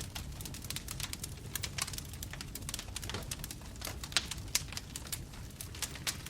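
Bonfire crackling: wood popping and snapping in quick, irregular clicks over a low steady rumble of the flames. The sharpest pop comes about four seconds in.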